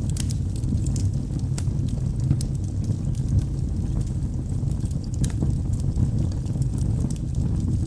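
Log fire burning in a fireplace: a steady low rumble of flames with scattered sharp crackles and pops from the burning wood.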